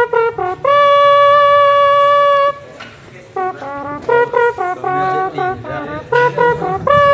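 A man imitating a military bugle call with his mouth, sounding like a brass instrument. Quick stepping notes lead into a long held note about a second in, then after a short pause come more quick notes and another long held note near the end.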